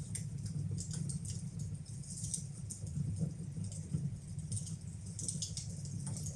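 Wood fire burning in a fireplace: frequent small crackles and pops, irregular and close together, over a steady low rumble of the flames.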